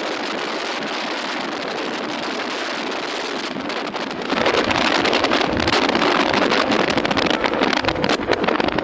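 Motorcycle being ridden, its engine running under wind rushing over the microphone. About four seconds in it gets louder, with heavy wind buffeting and more engine rumble.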